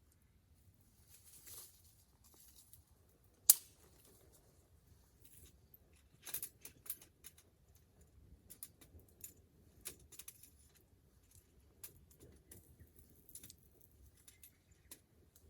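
Wood fire crackling, with scattered small pops and one sharp snap about three and a half seconds in.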